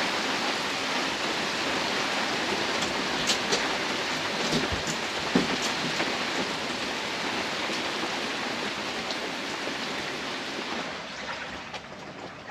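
Heavy rain falling in a steady hiss, with a few louder individual drops striking close by; it eases somewhat near the end.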